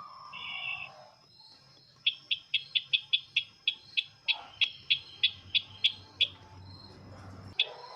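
A small bird, the 'sisintar ladang' used for luring, calling: a short buzzy note, then a fast run of about sixteen sharp high chips at roughly four a second, and a last single chip near the end.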